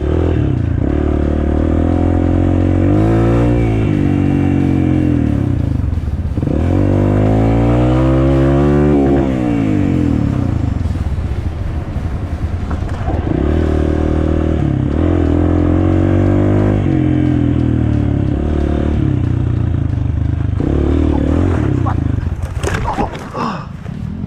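Honda CRF230F dirt bike's single-cylinder four-stroke engine being ridden, revving up and dropping back twice, running steadily between. It eases off near the end.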